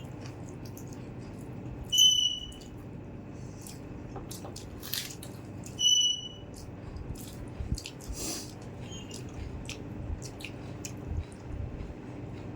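Eating sounds: soft clicks and smacks of chewing and of fingers working rice and chicken on a plate, over a steady room hum. Two short, high squeaks stand out, about two and six seconds in.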